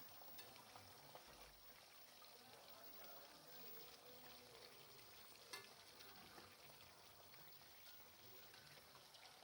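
Faint, steady sizzling of food frying in hot oil, with many small crackles and one sharper pop about five and a half seconds in.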